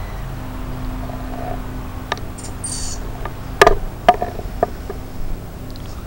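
A few short high bird chirps and a handful of sharp knocks or taps, the loudest about halfway through, over a steady low hum.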